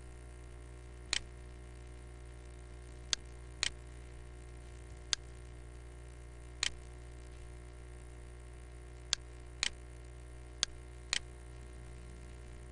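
Nine short, sharp clicks or taps at irregular intervals over a steady low hum.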